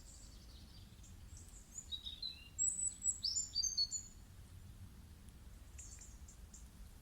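Birdsong: a run of quick, high chirps and short trills about two to four seconds in, with a few fainter chirps around it, over a faint steady background.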